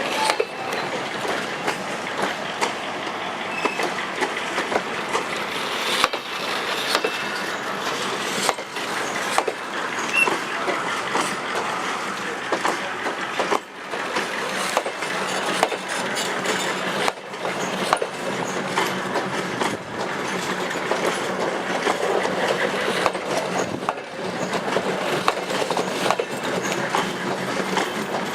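Train hauled by a G22 diesel-electric locomotive running on the track: a steady rumble with frequent irregular clicks and clatter from the wheels on the rails.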